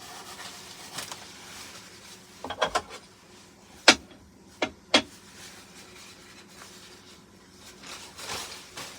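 Kitchen items handled on a counter during coffee making: rubbing and rustling, a quick run of clicks, then three sharp knocks, the loudest about four seconds in.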